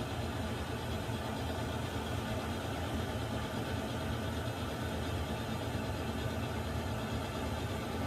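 Water heater running: a steady low rumble with an even hiss above it, unchanging throughout.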